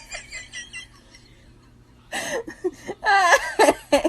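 Short bursts of high, wavering vocal sounds that start about two seconds in, after a quieter stretch, and bend up and down in pitch without forming words.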